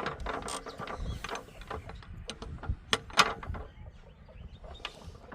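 Irregular mechanical clicking and clanking of metal parts, with a cluster of sharper clanks about three seconds in.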